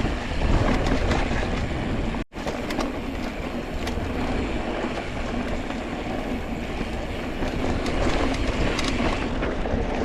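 Mountain bike riding noise on a dirt and rock trail: tyres rolling and crunching, small clicks and rattles from the bike, with a steady low rumble. The sound cuts out for a split second about two seconds in.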